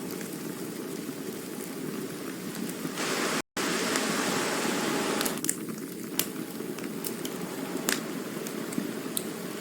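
Campfire burning: a steady low rush of flames with scattered sharp pops and crackles. A brighter hiss runs for about two seconds in the middle, broken by a split-second dropout.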